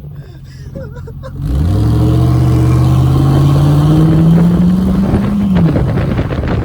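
A vehicle engine accelerating: it comes in suddenly about a second and a half in and climbs steadily in pitch for about four seconds, then drops off near the end as the throttle is let off or the gear changes.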